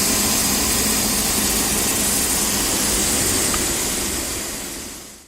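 Steady machine-shop noise: a loud, even hiss over a low rumble from running machinery, fading out over the last second.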